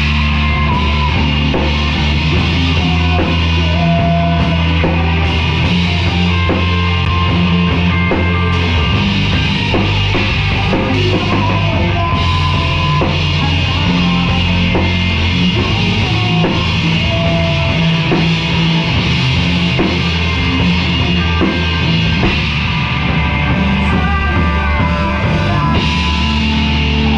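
Live rock band playing loudly, with a drum kit and guitars.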